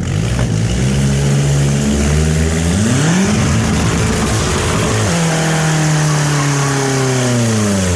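Kia Spectra's four-cylinder engine with an open exhaust revving hard. It is held at high revs, climbs and drops back about three seconds in, then is held high again and falls away near the end.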